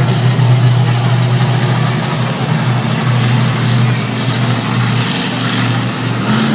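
Monster truck engine running steadily at a low, even pitch with broad noise around it; the pitch steps up near the end.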